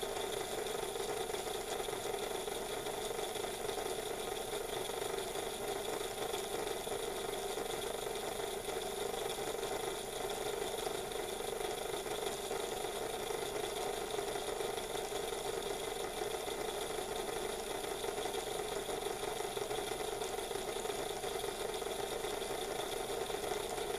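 Model railway locomotive's small electric motor and gears running steadily at low speed, its driving wheels turning in place.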